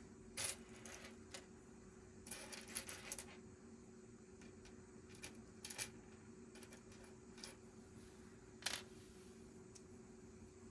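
Small plastic Lego pieces clicking and clattering as they are handled during a build. The clicks are scattered and short, with a quick cluster about two to three seconds in and a sharper single click near the end. A faint steady hum runs underneath.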